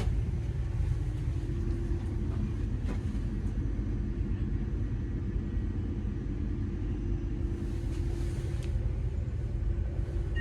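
Inside the carriage of a Class 220 Voyager diesel train: a steady low rumble with a faint, even hum as the train arrives at a station.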